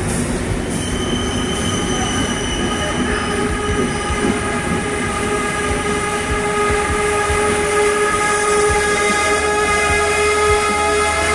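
Train at a station platform: a long, steady, high metallic squeal held for many seconds over a low rumble and irregular clicks.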